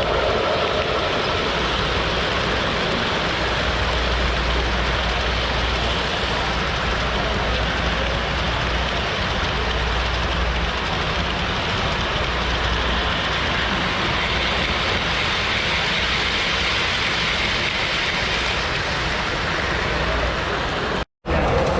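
Steady noisy ambience of a busy exhibition hall, with a brief dropout near the end where the recording cuts.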